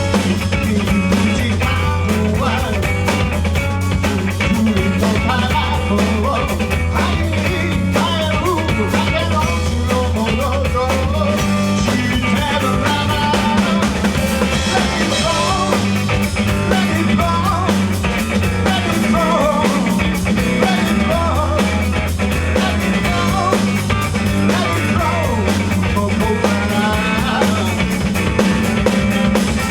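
Rock band playing live: a drum kit keeps a steady beat under electric guitar and a bass line.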